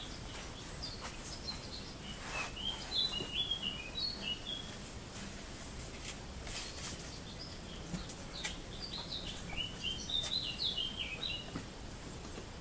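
A songbird singing two quick phrases of jumping high notes, one about a second in and another about eight seconds in, over a steady low background noise with scattered faint clicks.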